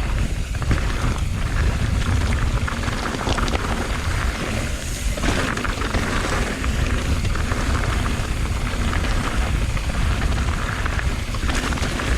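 Riding noise from a mountain bike on a rocky trail: steady low wind rumble on the camera's microphone, with tyres and the bike rattling over the ground.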